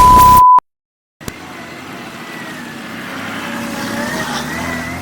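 A loud, pure beep tone lasts just over half a second, then cuts to silence. A click follows, and then a motor vehicle running, its pitch slowly gliding and its level growing.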